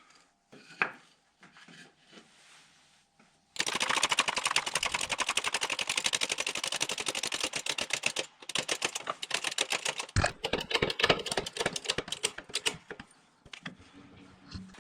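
An electric jigsaw cutting plywood with a fast, even chatter, in two runs with a short pause between them. Light handling knocks come before and after.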